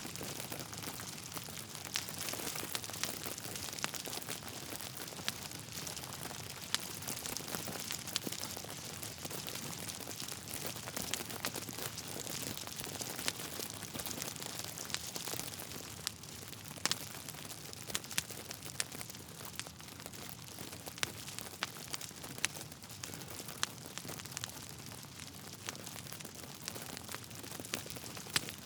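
Wood fire in a fireplace crackling: a steady hiss with frequent sharp pops and snaps from the burning logs.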